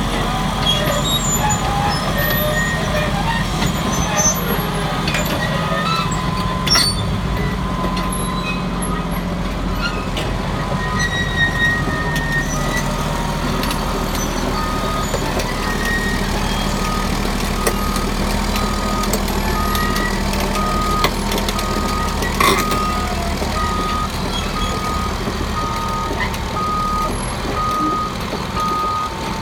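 Caterpillar D6R crawler dozer's diesel engine running steadily, with a few short knocks. About halfway through its reverse alarm starts beeping at a steady, high pitch, a little under two beeps a second: the dozer is backing up.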